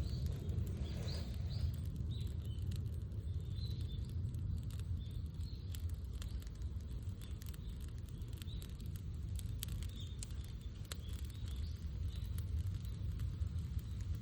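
Wood fire on open ground crackling, with irregular sharp pops, over a steady low rumble.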